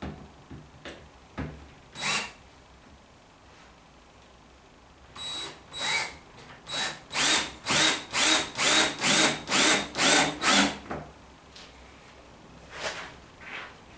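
Power drill with a crosshead bit driving 40mm wood screws into arris rail: one short burst about two seconds in, then a run of short trigger pulses, about two a second, for roughly six seconds.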